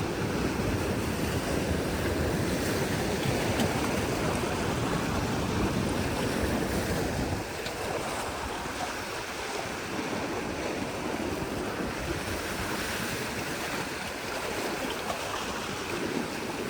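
Rough sea surf rushing against rocks, with wind on the microphone. The rush is louder for the first half and drops back about halfway through.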